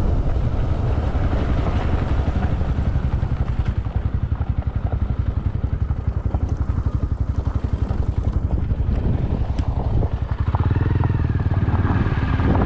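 Motorcycle engine running under way with a rapid, even pulsing, mixed with wind on the microphone.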